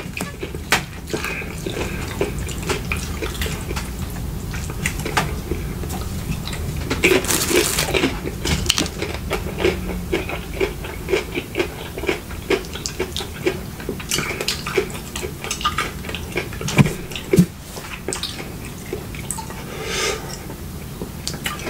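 Close-miked eating: wet chewing and mouth smacking, a dense, irregular run of small clicks and smacks.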